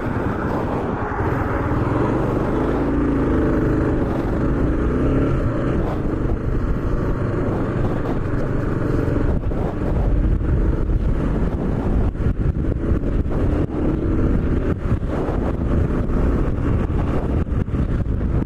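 Kawasaki KLR650's single-cylinder engine running at road speed, with wind rushing over the microphone. From about ten seconds in, rapid buffeting from the wind joins it.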